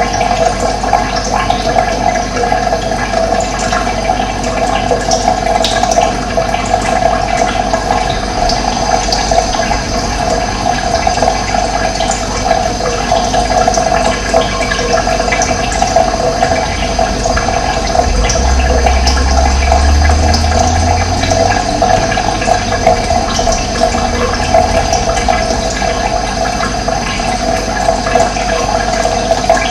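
Steady rush of running water, with a low rumble rising briefly about eighteen seconds in and fading a few seconds later.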